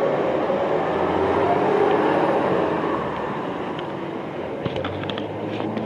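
Street traffic on a wet road: a passing vehicle's noise swells to a peak about two seconds in and then fades away, with a few light clicks near the end.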